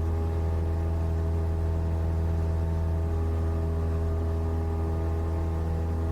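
Cessna 172's four-cylinder piston engine and propeller droning steadily in the cabin, a constant low hum with a stack of steady overtones and no change in power.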